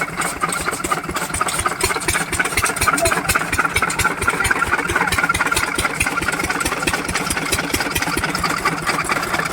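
Diesel engine of a chaff cutter machine running steadily, with a rapid, even beat.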